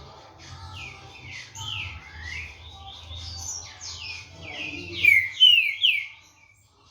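Green-winged saltator (trinca-ferro) singing a run of quick down-slurred whistled notes, loudest about five seconds in, then stopping near the end.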